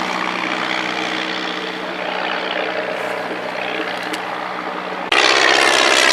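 Propeller engine of a vintage light training aircraft in flight, a steady drone. About five seconds in, the sound cuts abruptly to a louder, closer engine note.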